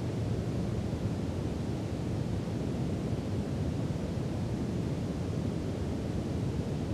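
Steady brown noise: an even, deep hiss that is strongest in the low end and thins out toward the highs, without change.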